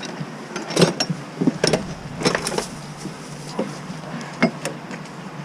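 Irregular sharp knocks and clinks of hand tools and metal being handled, about eight over a few seconds, over a steady low machine hum.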